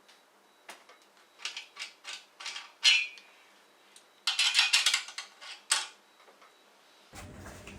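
Metal hand tools and small engine parts clinking and clattering: a string of sharp separate clinks, then a denser clatter about four to six seconds in.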